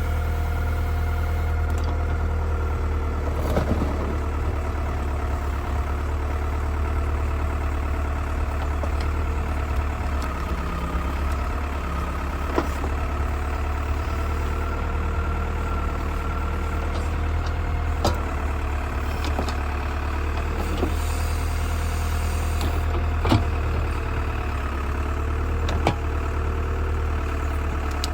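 Old tractor's engine running steadily with a strong low hum; its pitch dips briefly twice. Now and then there is a sharp knock or clank.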